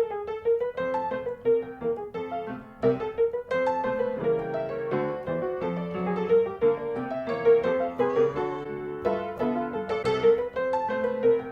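Solo piano music: a busy run of struck notes, several a second.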